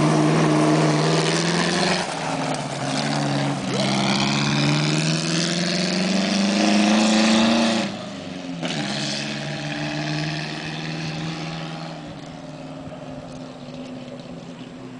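1930 MG M-Type Midget's 847 cc overhead-cam four-cylinder engine accelerating away hard, its note climbing through the gears with changes at about two and four seconds in. About eight seconds in the note drops sharply, then fades steadily as the car moves off into the distance.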